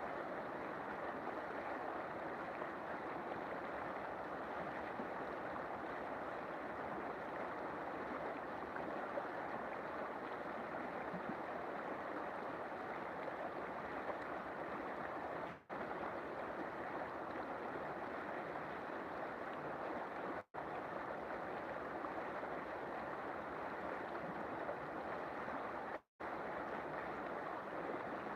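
River water flowing with a steady rush, broken three times by very short dropouts to silence.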